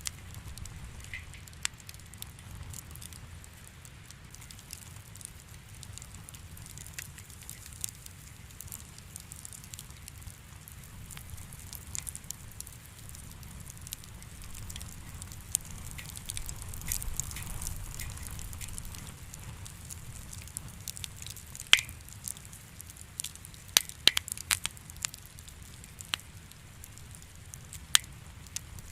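Wood fire crackling: a steady low rumble with scattered sharp pops and snaps, which come thicker and louder in the last third.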